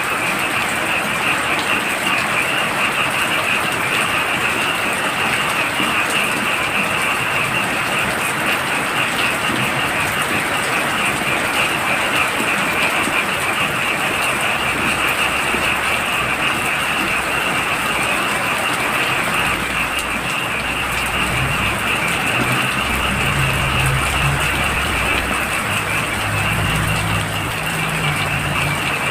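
Heavy rain falling steadily, with a dense chorus of frogs calling in a fast, high trill throughout. In the last third a low, pulsing drone joins in.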